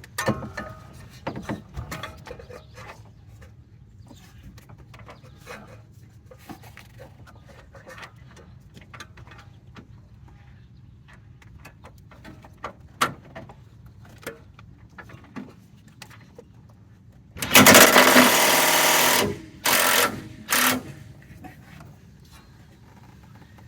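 Cordless impact wrench hammering on a tight idler arm mounting bolt: one loud burst of about two seconds, then two short bursts, which breaks the bolt loose. Before it come scattered light clicks and knocks of the tool and socket against metal.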